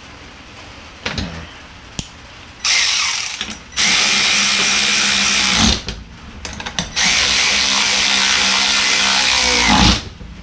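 Power tool running in three bursts of one to three seconds, each with a steady whine and a bright hiss, with a few short clicks in the pauses between them.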